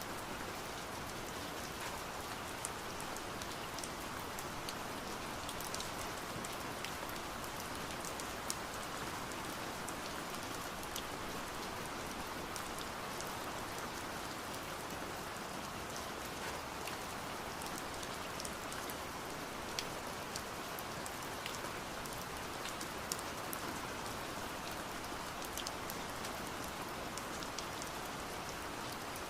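Steady rain: a muffled, even rushing hiss, with sharp drops tapping on window glass scattered all through it.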